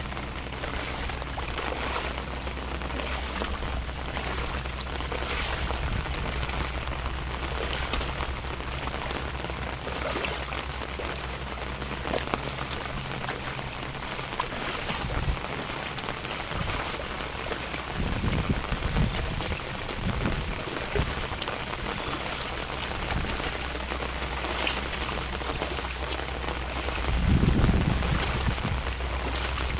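Steady rain falling, a dense patter of drops hitting surfaces. A low rumble rises twice, about two-thirds of the way through and again near the end.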